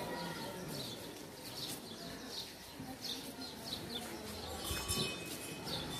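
Small birds chirping, short high chirps repeating about once or twice a second over quiet street noise.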